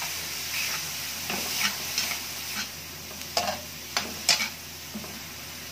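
Ground beef sizzling in a metal wok under a steady hiss, while a metal spatula stirs it with a run of scrapes against the pan. The scrapes are loudest about three and a half to four and a half seconds in.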